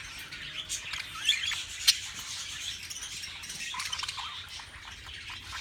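Budgies chirping and chattering in short calls and pitch glides, mixed with light clicks and taps from the cage; one sharp click about two seconds in is the loudest sound.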